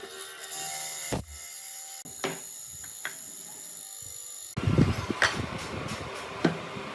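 Workshop handling sounds: a few separate sharp knocks of wood and tools. About two-thirds in, the sound changes abruptly to a busier, louder run of knocks and clatter.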